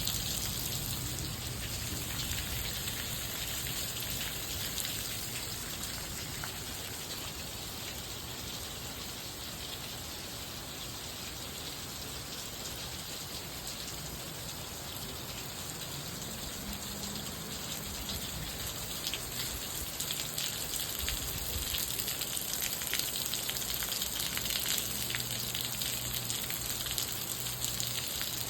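Rain falling steadily, a dense patter of drops that eases a little mid-way and grows heavier again toward the end.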